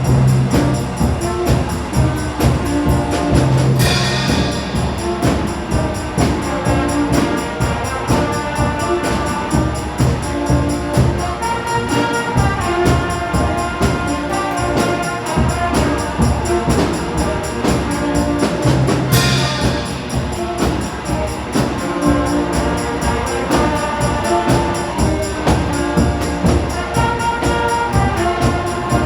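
Middle school concert band playing a rock arrangement, winds and brass over a steady drum beat, with a cymbal crash about four seconds in and another about nineteen seconds in.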